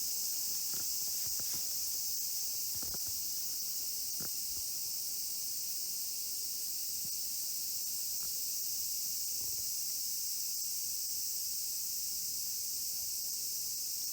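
A steady, high-pitched chorus of cicadas buzzing without a break, with a few scattered light clicks and snaps in the first few seconds.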